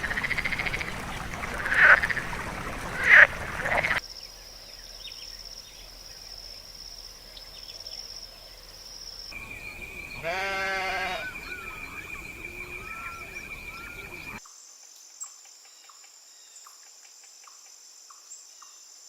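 A run of short animal sound clips cut one after another. It opens with three loud calls, about a second apart. After that come steady high-pitched trilling tones, and around the middle one pitched, wavering call like a bleat.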